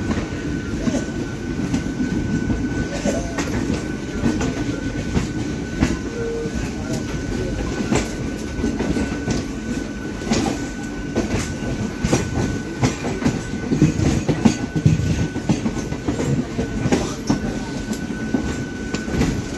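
Electric local train running through the station, its wheels clacking irregularly over rail joints and points under a steady rumble, with a thin steady high whine.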